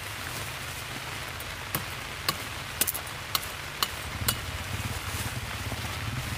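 Steady heavy rain hiss, with a quick run of about seven sharp clicks and knocks in the middle.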